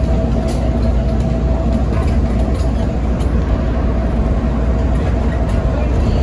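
Rubber-tired airport people-mover train running at speed, heard from inside the car: a steady low rumble with a faint steady whine over it and a few light clicks.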